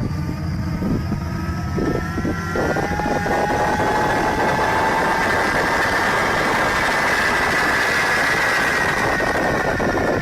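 Jet engine on a rail vehicle running: a steady rumble, then from about two and a half seconds in a loud roar with a high turbine whine that rises slightly and holds.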